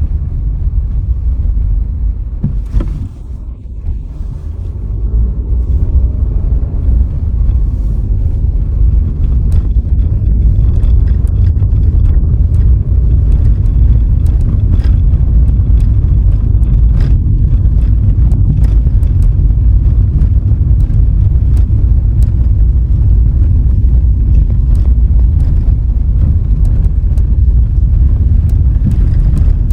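Car driving along a road: a steady, loud low rumble of road and wind noise, with scattered small clicks and ticks. The rumble eases briefly about three seconds in, then builds back up.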